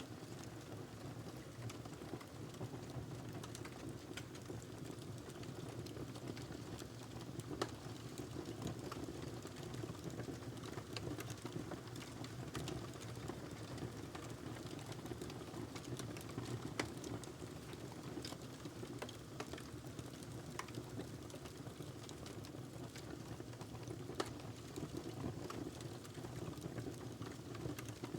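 Wood logs burning in a fireplace: a steady low rush of flame with scattered sharp crackles and pops, a few of them louder.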